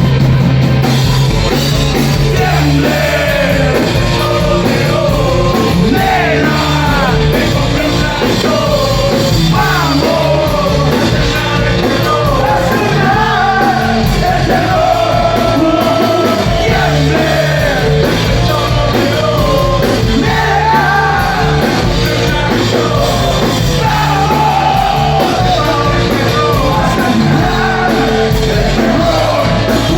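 Rock band playing loudly, with a singer over electric guitar, bass and drums.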